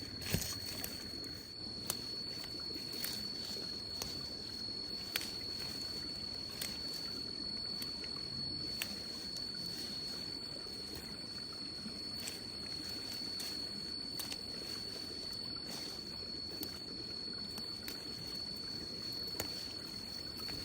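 An insect's steady, unbroken high-pitched trill, with a low background hiss and scattered faint clicks.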